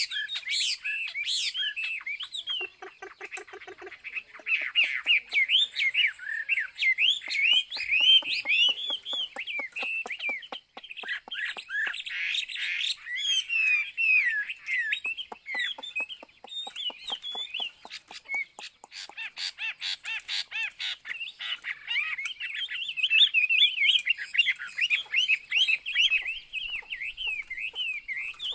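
Chinese hwamei (melodious laughingthrush) singing a long, varied song of rapid slurred whistles, mixed through the middle with fast runs of sharp clicking chatter.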